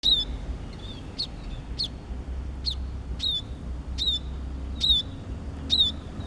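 A small bird chirping repeatedly, a sharp call a little more than once a second. Each chirp sweeps quickly down from very high and ends in a short hooked note.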